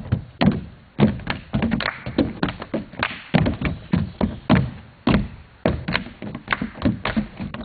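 A group of dancers' feet stamping and tapping on a floor: a quick, uneven run of thuds and taps, several a second.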